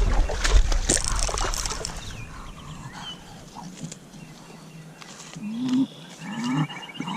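Loud knocking and rumble, with wind on the microphone, for the first couple of seconds. Then, after a quieter stretch, a bulldog makes short whining grumbles that rise and fall in pitch, two or three times near the end.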